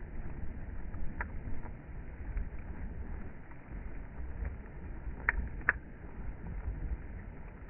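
Bonfire burning with a steady low rumble, and a few sharp crackling pops: one about a second in and two close together a little past halfway.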